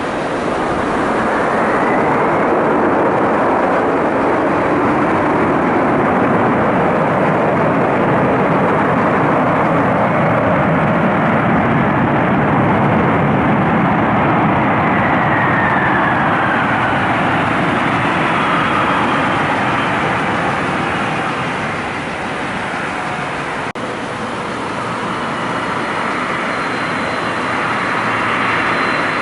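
Boeing 747-400 freighter's four jet engines running loud on arrival, a steady roar with faint gliding tones through it. The roar eases slightly about three-quarters of the way through, then swells again near the end.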